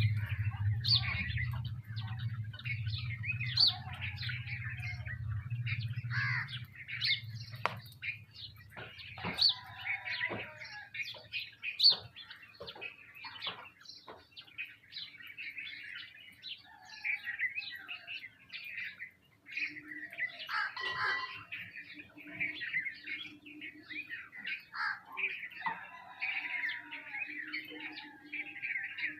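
A flock of sparrows chirping busily and without pause, with a few sharp clicks and wing flutters. A low hum underneath fades out about seven seconds in.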